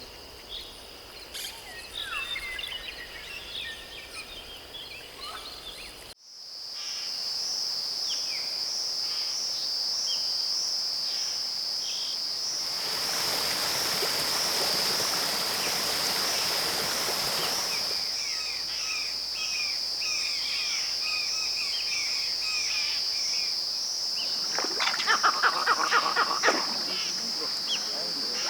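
Rainforest ambience: a high, steady, pulsing insect chorus with scattered bird chirps. It changes abruptly about six seconds in, and a hiss sits under it for several seconds in the middle. Near the end comes a loud, rapid rattling call.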